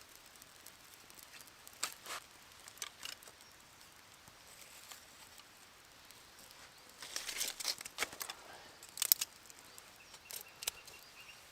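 Scattered sharp crackles and rustles from a small kindling fire of birch bark and sticks, thickening about seven seconds in, with a couple of louder pops about nine seconds in.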